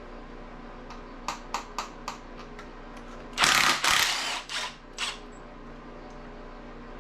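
Tool work on a 5.3 LS engine's ignition coils: a few light clicks, then a loud rasping burst about a second long and two shorter ones.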